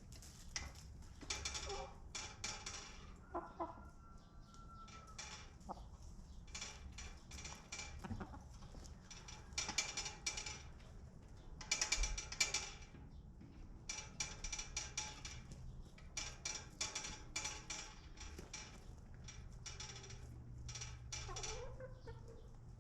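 Domestic chickens clucking and squawking, many short calls overlapping, with the loudest bursts around the middle.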